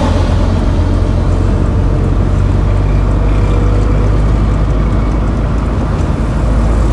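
Road traffic noise: a steady, loud low rumble of engines and tyres from passing motor vehicles.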